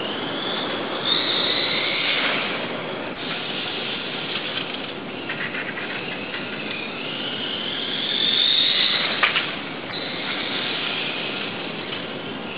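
Brushless electric motor of a Kyosho radio-controlled motorcycle whining, rising in pitch twice as it speeds up, over a steady rushing noise. A sharp click comes near the top of the second run-up.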